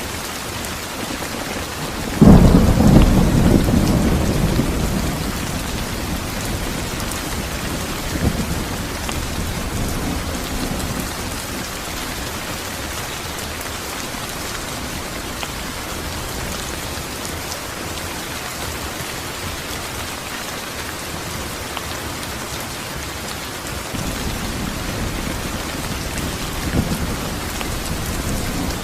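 Steady heavy rain falling, with a sudden loud clap of thunder about two seconds in that rumbles away over several seconds, and fainter rolls of thunder later on.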